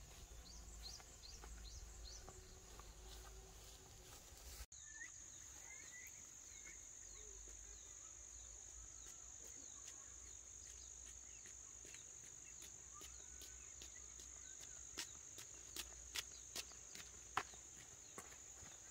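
Faint outdoor ambience: insects droning on one steady high note, with scattered short bird chirps. A cut breaks it about a quarter of the way through, and a few sharp clicks or knocks come in the last few seconds.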